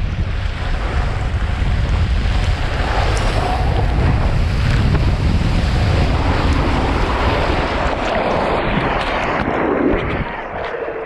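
Rushing water on a water slide, with wind buffeting the microphone in a heavy low rumble. It eases off near the end.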